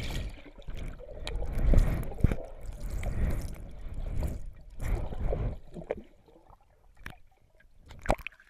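Water splashing and sloshing in a swimming pool in irregular swells, dying away about six seconds in, followed by a few faint clicks.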